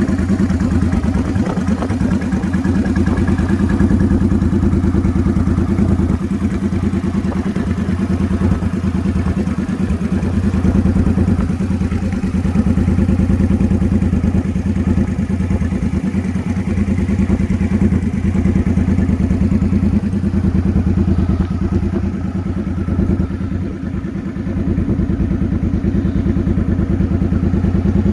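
Motorcycle engine idling steadily, its firing pulses even throughout, with a brief drop in loudness near the end.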